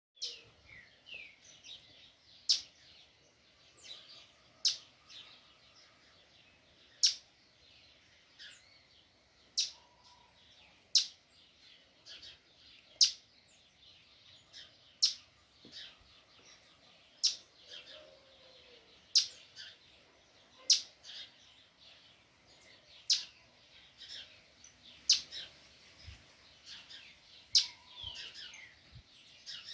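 Ruby-crowned tanager (tiê-preto) giving short, sharp call notes about every two seconds, with softer chirps between them.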